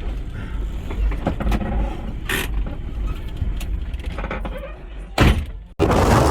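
A vehicle running, a steady low rumble with scattered creaks and clicks, a brief louder noise about five seconds in, then an abrupt cut to heavy wind buffeting the microphone near the end.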